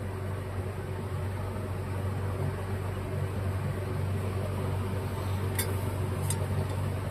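A steady low hum with a faint even hiss, like a fan or other running machine, with two light clicks near the end.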